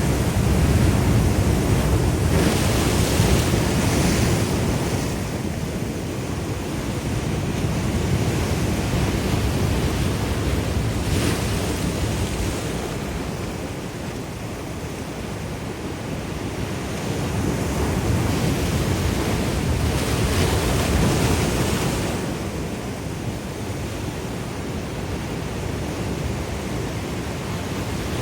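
Ocean waves breaking and washing in, a continuous rushing surf that swells and eases every several seconds, with the loudest rushes in the first few seconds and again about twenty seconds in.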